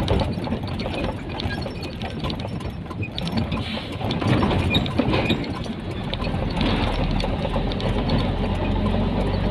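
Nissan Diesel truck engine heard from inside the cab, with a busy clatter of small clicks and rattles. About six seconds in it settles into a steady low idle, as the truck slows at a toll gate.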